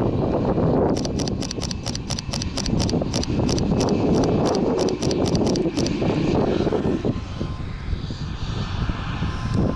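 Fujifilm X-T3 camera shutter firing in a rapid burst of clicks, several a second, for about five seconds. Underneath is the steady rumble of an aircraft's engines.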